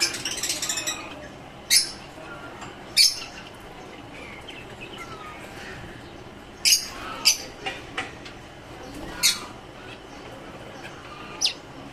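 Pet lovebirds and finches calling: a rapid chatter at the start, then sharp, shrill short squawks about six times at irregular intervals, with soft chirps between.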